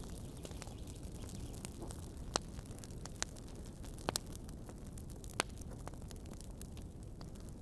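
Wood fire burning in a fireplace: a steady low rumbling hiss with sharp crackles and pops scattered through, the loudest a little after 2 s, a quick double pop about 4 s in, and another about 5.4 s in.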